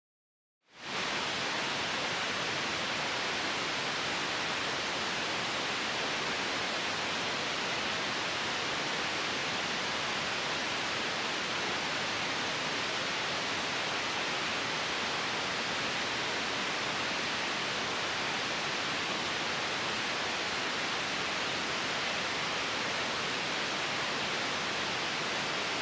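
Steady white noise, a constant even hiss for sleep, starting from silence with a quick fade-in about a second in.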